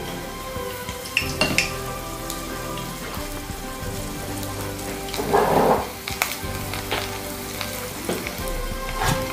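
Battered okra deep-frying in a small saucepan of hot oil: a steady sizzle, with a few spoon clinks against a bowl and a brief louder rush a little past halfway.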